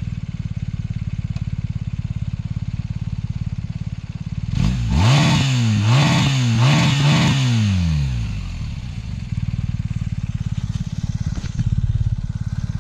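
BMW R 1250 GS's boxer twin idling with an even, lumpy pulse, then blipped through several quick revs about four and a half seconds in, each rising and falling back, before settling to idle again.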